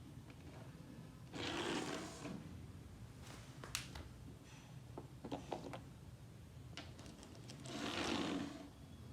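A small toy motor whirring in two short spells, with a few clicks and knocks of plastic parts between them.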